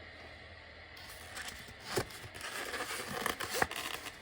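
Cardboard and plastic packaging rustling, crinkling and scraping in irregular bursts as a new humidifier is unpacked from its box.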